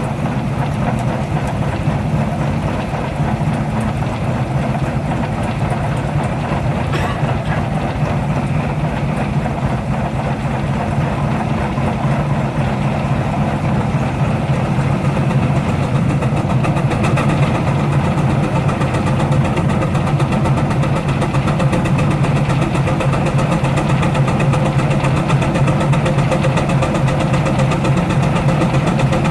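Baker steam traction engine running steadily under load on a prony brake, its exhaust beats coming in a fast, even rhythm. It grows slightly louder about halfway through.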